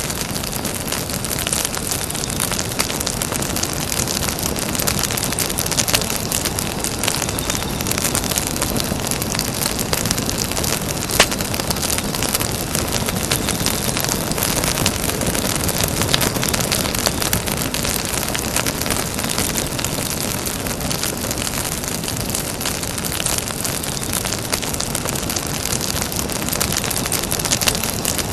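Campfire burning with a steady hiss and dense crackling, one sharper pop about a third of the way through.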